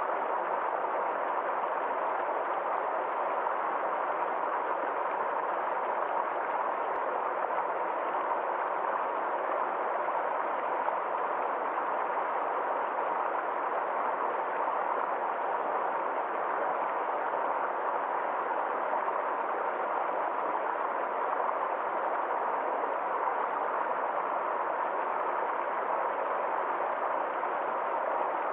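Small forest stream flowing over stones in a small waterfall, a steady even rush of water that stays the same throughout.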